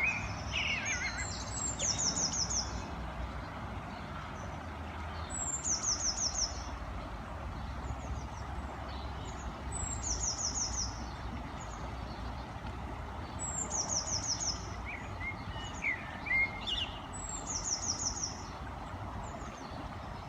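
A small songbird repeating a short, high phrase of five or six quick notes about every four seconds, with a few lower chirps in between, over a steady low rumble.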